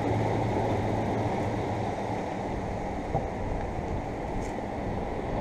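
Steady low rumble of wind on the microphone of a moving bicycle rider.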